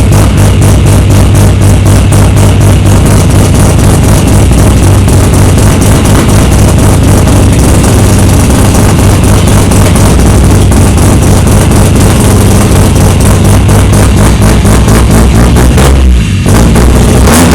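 Knight Sports RX-8's two-rotor rotary engine idling loudly while warming up, with a fast, regular choppy pulse. The sound changes briefly near the end.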